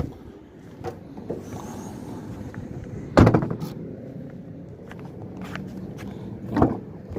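Three loud clunks of a car's doors or panels being handled, at the start, about three seconds in and near the end, over a steady low hum.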